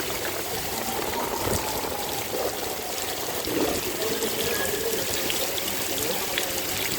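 Steady rain falling, with water pouring and gurgling as it runs off.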